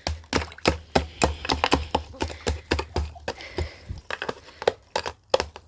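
Rapid, irregular sharp clicks and knocks of a screwdriver jabbing and chipping at ice frozen around a chicken waterer's outlet.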